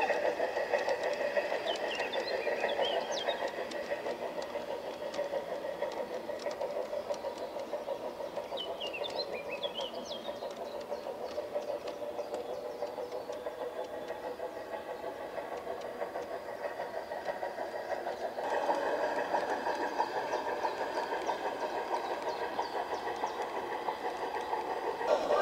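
Garden-scale model train running on outdoor track: a steady, fast rhythmic rattle and chuffing that gets louder about eighteen seconds in, as if the train comes closer.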